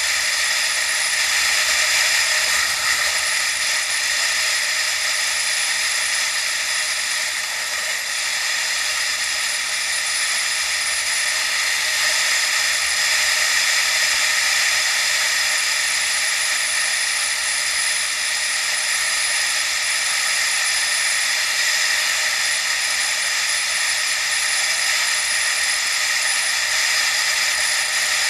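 Steady rushing wind and road noise picked up by an action camera while riding, unbroken and even in level throughout.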